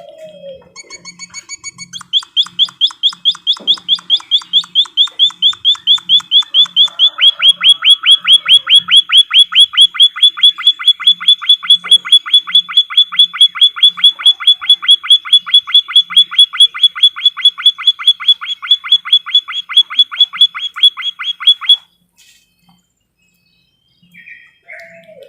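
White-headed munia (emprit kaji) singing a long, fast trill of rapidly repeated short chirping notes that grows louder in its first seconds and stops abruptly near the end, followed by a few faint chirps.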